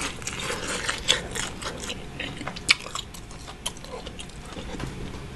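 Close-miked chewing of crispy fried chicken: irregular crunches and wet mouth clicks, a few of them louder.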